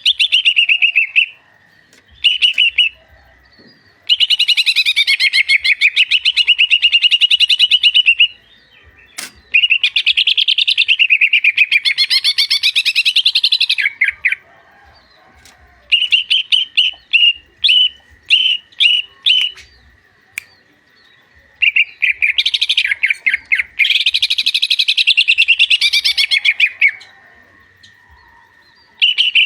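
Cucak hijau (green leafbird) singing: long, fast, loud warbling phrases of several seconds each, broken by short pauses, with a run of short separate chirps partway through.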